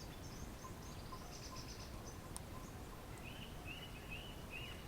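Faint outdoor evening ambience with small birds calling: quick high chirps in the first couple of seconds, then a short run of repeated notes near the end. A single sharp pop from the wood fire comes about halfway through.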